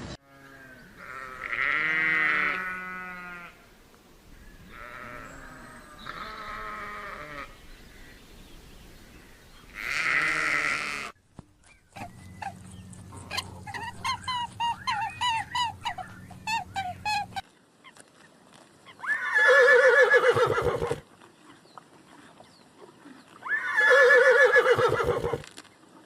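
Goats bleating in a series of separate calls, the two loudest and longest near the end, with a stretch of many short, quick, higher calls in the middle.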